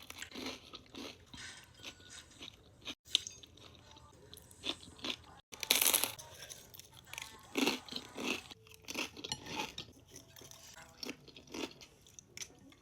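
Close-miked crunching and chewing of crisp snack food, in irregular bites, the loudest crunch about six seconds in.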